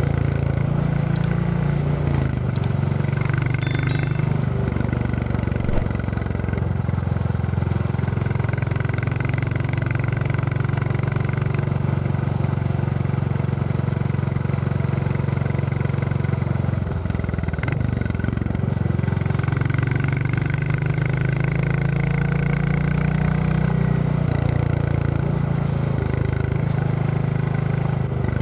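Royal Enfield Classic 350's single-cylinder engine thumping steadily while under way. The engine note shifts about three seconds in and again around seventeen seconds in. A few light clicks come near the start.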